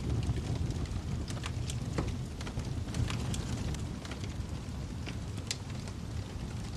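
Wood fire crackling in a fireplace: irregular sharp pops and snaps over a steady low rumble of the flames, with one sharper pop about five and a half seconds in.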